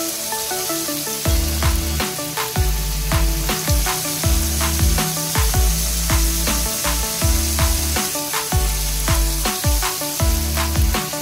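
Breaded chicken wings deep-frying in hot oil, a steady sizzle. Over it plays electronic background music whose drum and bass beat comes in about a second in.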